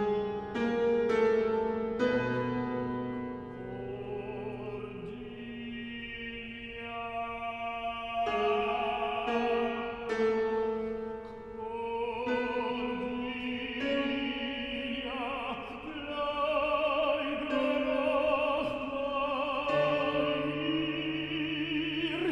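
Operatic singing with keyboard accompaniment. A few struck chords open the passage, then a voice holds long notes with a wide vibrato over the sustained accompaniment.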